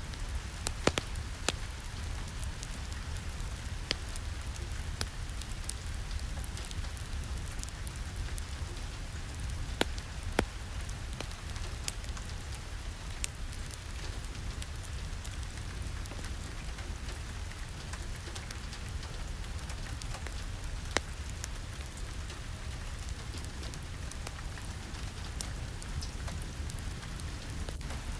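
Steady rain, with a low rumble under it and scattered sharp clicks and pops throughout.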